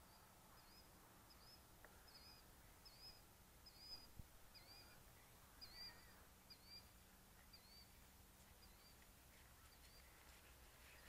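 Near silence, with a small bird faintly calling: a short hooked chirp repeated a little more than once a second, fading out near the end.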